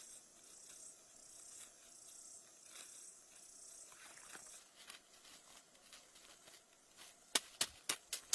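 Faint rustling and handling noises with scattered small clicks, then a quick run of sharp taps near the end.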